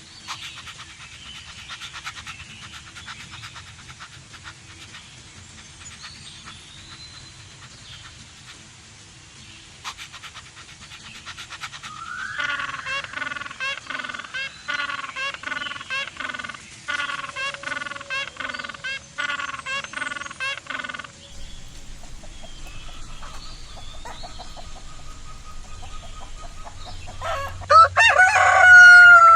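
Chickens clucking in a fast run of short, repeated calls through the middle, then one short, loud call near the end.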